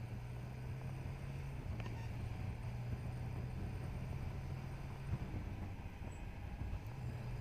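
Motorcycle engine running steadily while riding, a low hum with road and wind noise over it.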